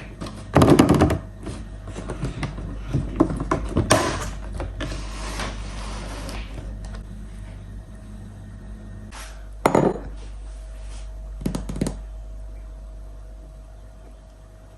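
Kitchen handling sounds: dishes and utensils knocked and set down in a few separate thunks, over a low steady hum.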